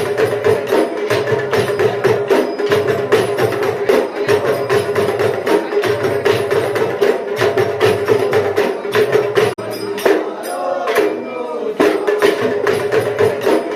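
Percussion-driven folk music: fast, dense drum and jingle strikes over a steady held tone. The strikes drop out briefly about ten seconds in while a wavering pitched sound carries on, then resume.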